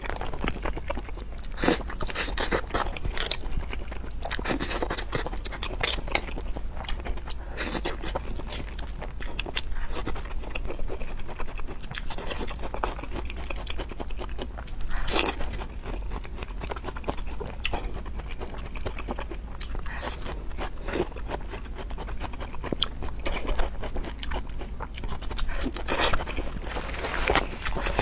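Close-miked eating sounds: a woman biting and chewing cucumber and seafood, with crunchy bites, wet chewing and frequent sharp mouth clicks and smacks, a few louder crunches standing out.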